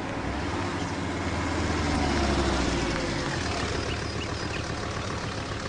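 Car engine running with a low rumble that swells about two seconds in, then settles to a steady idle.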